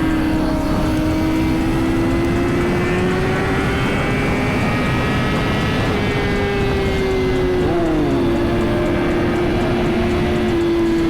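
Suzuki GSX-R1000's inline-four engine running steadily at highway speed under heavy wind rush, its pitch creeping up for several seconds and then easing off. About eight seconds in, a second engine's pitch swoops briefly.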